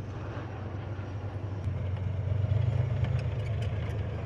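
Heavy armoured military vehicle engine running with a deep rumble, growing louder about halfway through and easing a little near the end, as the vehicle draws close.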